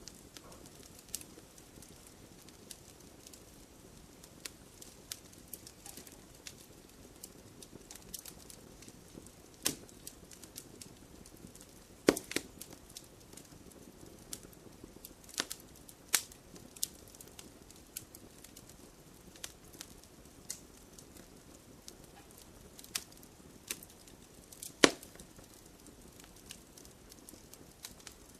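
Wood campfire crackling: irregular sharp pops and ticks over a soft steady hiss, with a few much louder snaps scattered through.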